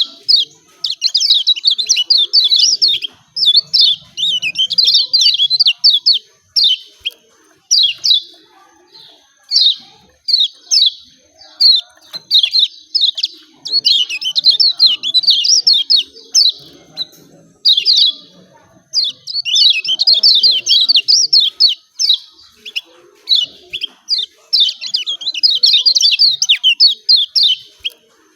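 Kecial kuning, a small white-eye songbird, giving rapid 'ciak ciak' chirping calls in the style used in song contests. The chirps come in quick, high-pitched runs of one to three seconds, with short pauses between runs.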